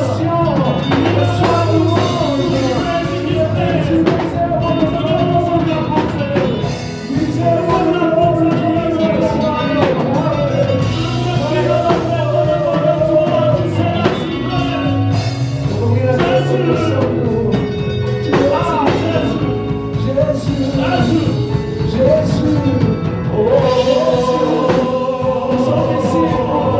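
Live gospel worship music: a band with drums playing while voices sing a melody over it.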